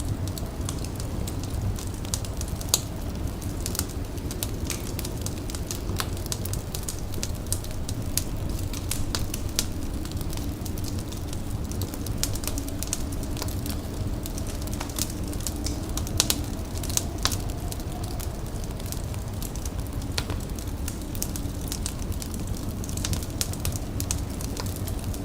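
Wood fire crackling: a steady low rumble of flame with sharp pops scattered irregularly throughout, a few of them louder.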